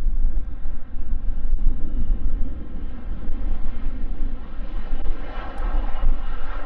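Jet aircraft engines running, growing louder over the second half, with wind buffeting the microphone as a heavy low rumble.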